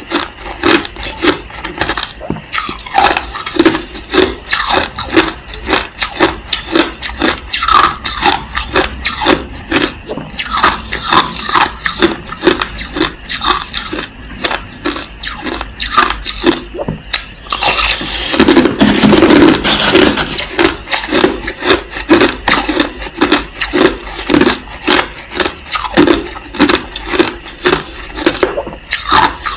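Crushed ice being chewed, crunching steadily at about two to three bites a second, with a louder, denser stretch of crunching about two-thirds of the way through.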